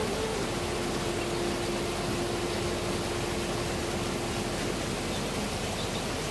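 Steady rain falling with an even hiss, with a single faint held note sounding from about half a second in until about two-thirds of the way through.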